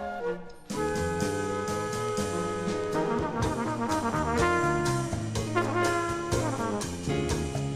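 Big-band jazz with a full brass section of trumpets and trombones over drums. The ensemble comes in together less than a second in, after a brief quiet moment, and plays sustained chords and riffs.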